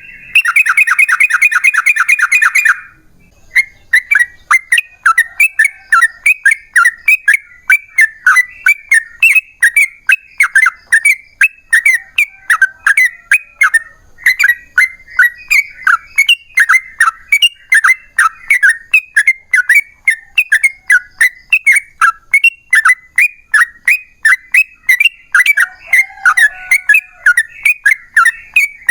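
Yellow-vented bulbul (trucukan) singing in a long, excited bout. It opens with a fast rattling trill of about two and a half seconds. Then comes a steady run of short, bubbly, chortling notes, about three a second.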